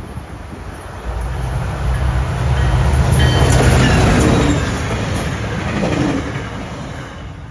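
Tri-Rail diesel push-pull commuter train with double-deck cars passing close by: the engine's hum and the wheels running on the rails rise from about a second in, are loudest around three to four seconds, then fade as the last car goes by.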